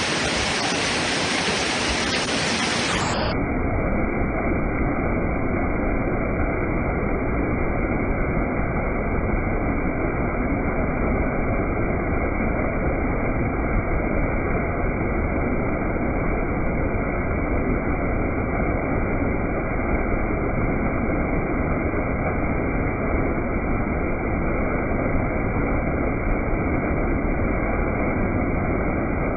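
Waterfall, a steady loud rush of falling water; about three seconds in it suddenly turns duller as its high end drops away.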